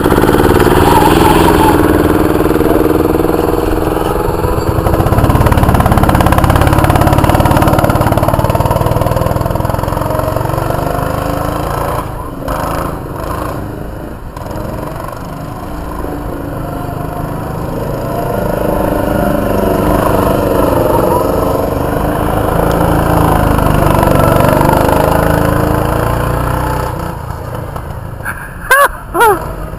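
Mini sprint car engine running hard on track, its level swelling and fading with throttle and distance, with two short sharp revs near the end.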